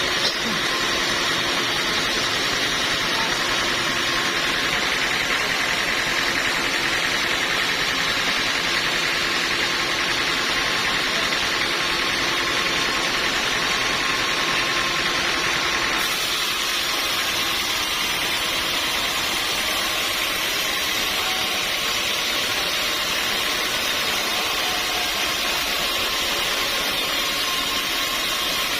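Steady running noise of sawmill machinery, with an abrupt slight change in its high-pitched part about halfway through.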